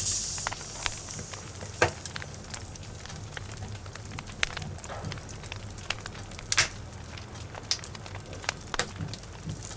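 Logs burning in a fireplace, crackling: irregular sharp pops and snaps over a steady low rumble of flame, with a few louder snaps at the start, about two seconds in and near the middle.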